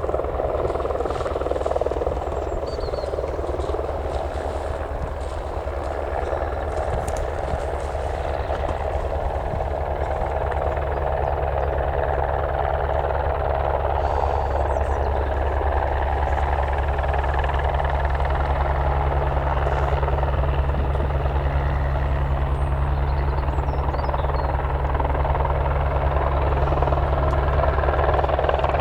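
Helicopter running with a steady low rotor thrum, growing slowly louder toward the end.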